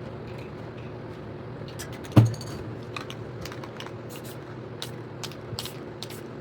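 Short, quick hisses of a spray paint can being sprayed in dabs, with one loud knock about two seconds in.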